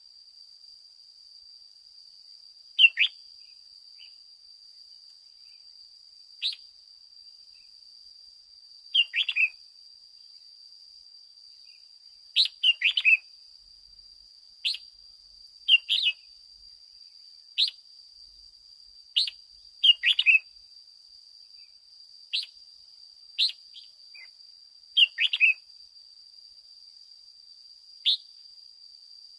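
Red-whiskered bulbul giving short, sharp chirping calls, singly or in quick clusters of two or three, every one to three seconds, over a faint steady high-pitched tone.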